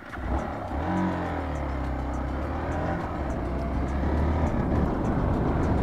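Hero Xpulse 200 4V's single-cylinder engine running as the motorcycle rides along, heard from the rider's position and growing gradually louder.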